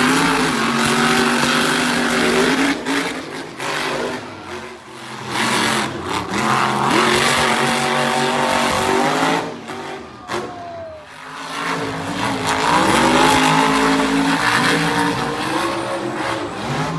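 Monster truck engine, a big supercharged V8, revving hard over and over: the pitch climbs with each burst of throttle and falls away when the throttle is lifted, about three times.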